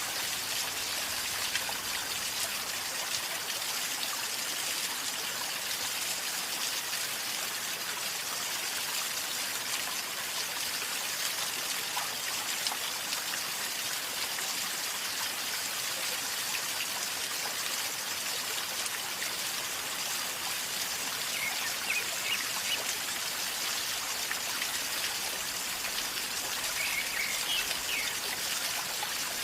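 River water flowing calmly with a steady gurgling rush.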